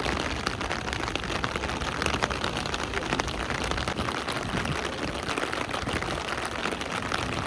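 Rain falling, a dense steady patter of many drops striking a surface.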